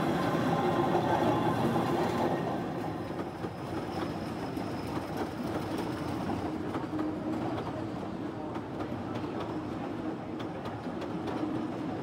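Kurobe Gorge Railway narrow-gauge train passing slowly. The electric locomotive goes by with a louder steady hum for the first couple of seconds, then the passenger cars roll past with light clicking of wheels over the rail joints.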